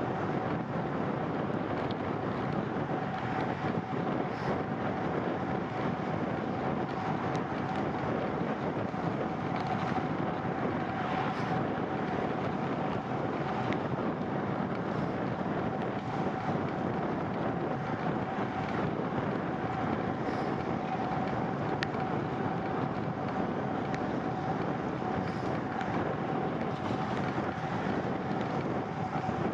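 Steady rushing wind and road noise from riding a bicycle on wet pavement, with a faint steady whine underneath and a few light ticks.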